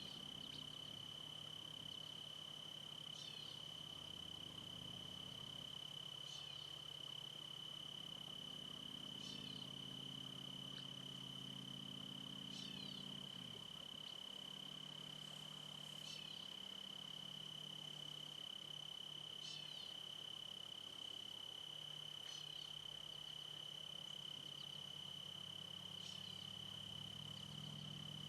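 Steady high-pitched insect trill, with a short high bird call repeated about every three seconds and a low hum underneath.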